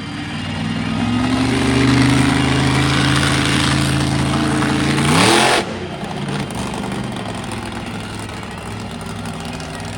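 Monster truck engine revving hard: the note rises and holds high for a few seconds, sweeps up sharply and cuts off abruptly about five and a half seconds in, then settles back to a lower running note.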